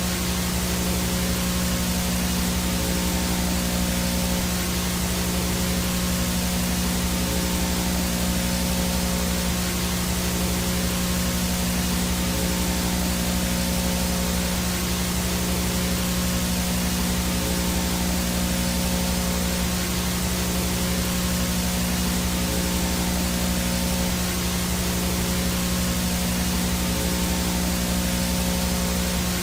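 VHS static: a steady hiss of white noise with a low steady hum underneath, unchanging in level.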